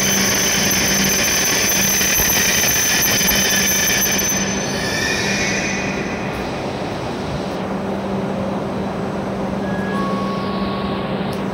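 A JR West W7 series Shinkansen train braking into the platform with a high-pitched squeal over a steady rumble. The squeal fades out about four seconds in, and the train rolls to a stop with a lower, steady running noise.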